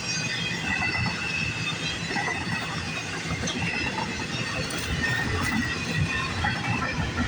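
CN container freight train's cars rolling past at speed, a steady rumble of wheels on the rails with thin high tones from the wheels running through it.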